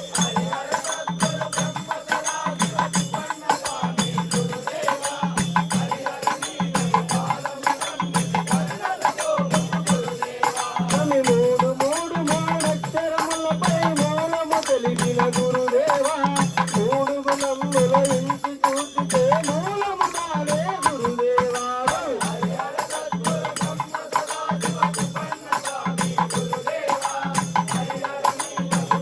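Hindu devotional bhajan music: a wavering melody line over a steady drum beat, with continuous rattling hand percussion.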